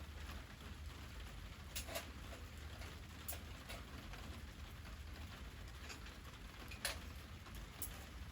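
Wood fire crackling softly, with a few sharp, scattered pops.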